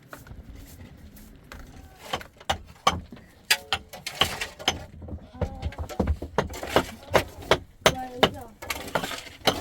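A busy run of sharp, irregular knocks and clatter that grows louder about two seconds in, with a few short bleating calls among them.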